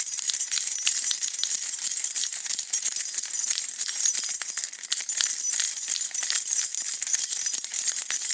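A bunch of metal keys jingling continuously as they are shaken, a dense bright jangle of many small clinks.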